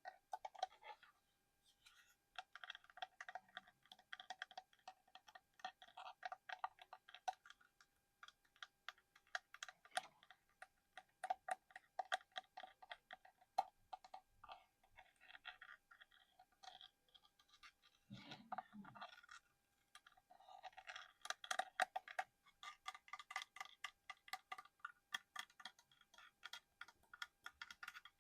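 Fingertips and nails tapping and scratching on small objects, in dense runs of quick irregular clicks with a sparser stretch in the middle and a soft knock about eighteen seconds in.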